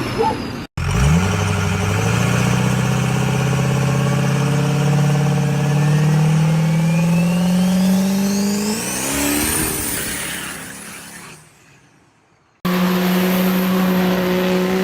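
Diesel truck engine pulling under load, its note climbing steadily for several seconds with a high whistle rising alongside it, then fading away. Near the end a cut brings in a steady engine note.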